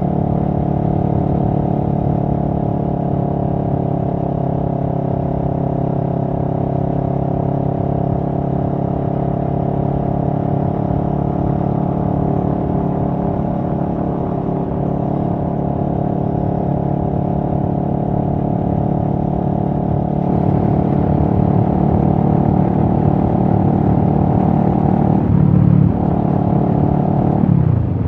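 2023 CFMoto 650NK's parallel-twin engine running at a steady, slowly easing rpm, growing louder and rougher about two-thirds of the way through. The note breaks briefly near the end, then the revs drop sharply.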